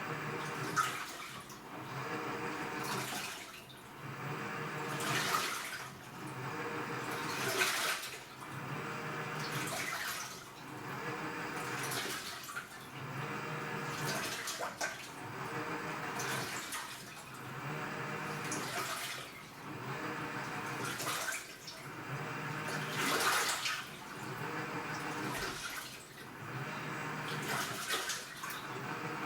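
AQUA washing machine agitating its wash water. The direct-drive inverter motor hums as it turns the load one way, then the water sloshes loudly as it reverses, roughly once every two seconds.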